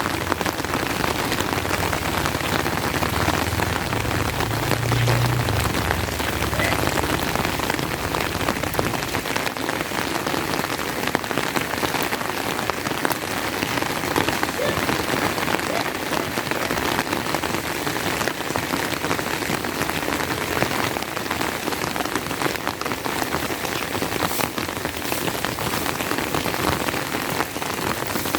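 Steady rain, a dense patter of drops striking close to the microphone, likely on an umbrella overhead. A low rumble sits under it for the first several seconds.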